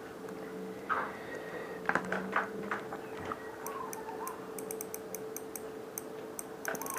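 Small clicks from a spinning fishing reel being handled and tightened, then a quick, uneven run of light ticks in the second half as the reel is cranked. A faint steady hum lies underneath.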